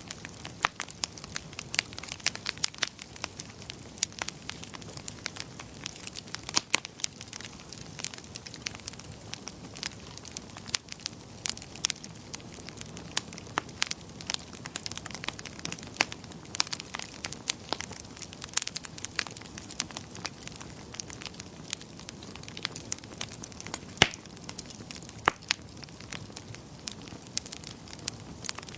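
Wood fire crackling in a fireplace: irregular sharp pops and snaps, several a second and some much louder than others, over a steady low hiss of burning.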